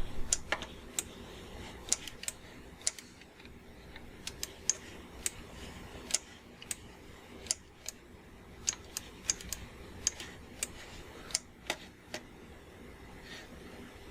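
Computer mouse and keyboard clicking: about twenty sharp single clicks at uneven intervals over a faint steady hum.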